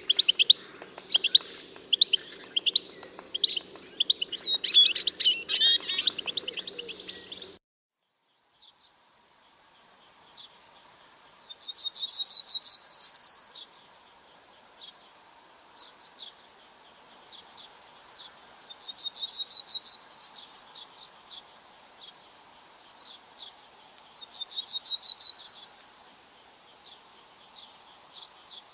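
Birds chirping busily, then after an abrupt cut about seven seconds in, a single bird's song repeated three times at intervals of several seconds. Each phrase is a fast trill of about a dozen short notes ending in a higher note.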